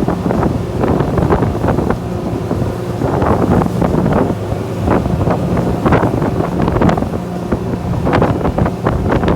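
Glass-bottom tour boat's engine running steadily under way, with wind buffeting the microphone in irregular gusts.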